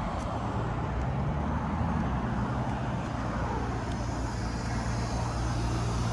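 Road traffic: a motor vehicle's steady low hum with tyre and road noise.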